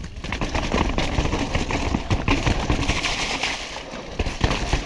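Mountain bike descending a rough, wet trail at speed: a rapid, irregular rattling and clattering from the bike over bumps, with tyres running through mud over a steady rush of noise.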